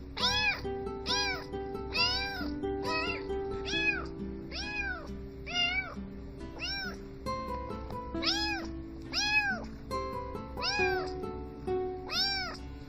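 A cat meow repeated in rhythm over backing music, about one a second. Each meow rises and falls in pitch, and the meows keep pace with the music's held chords, like a song made from cat meows.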